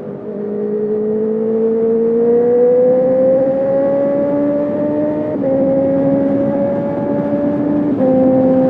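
Honda CB650R's inline-four engine, breathing through a full Akrapovic exhaust with no dB killer, accelerating hard. The revs climb steadily, then fall abruptly twice, about five seconds in and again near the end, as the quickshifter snaps through upshifts without the power cutting out.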